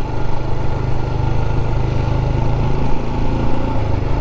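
Royal Enfield Scram 411's single-cylinder engine running steadily at road speed, with a constant rush of wind and rain noise over it.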